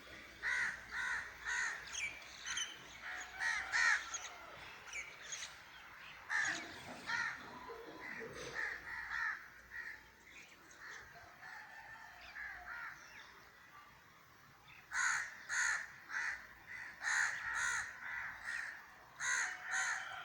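Birds calling in runs of short, rapidly repeated calls, several calls to a run: one run near the start, one in the middle and a last, longer one near the end.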